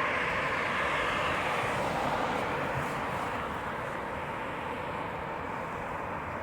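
Jet engine noise of a Boeing 737-700 BBJ with CFM56 turbofans during its landing run, a steady rushing that eases off gradually.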